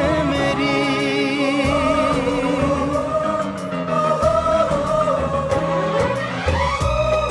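A Hindi film-style song: held, wavering sung notes over instrumental backing, with a rising slide near the end.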